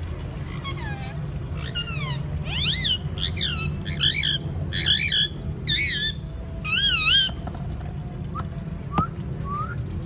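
A bird calling repeatedly: about seven wavering, whistle-like calls, then a few short rising chirps near the end, over a steady low hum.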